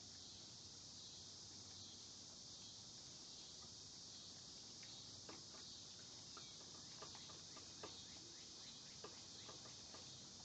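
Faint, steady high-pitched chorus of crickets, with a few faint clicks in the second half.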